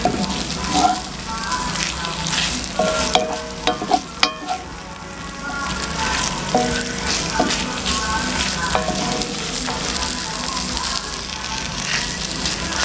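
Shredded salt mackerel, sweet peppers and onions sizzling steadily in coconut oil and butter in a cast iron pan, stirred with a wooden spoon that clicks and scrapes against the pan now and then.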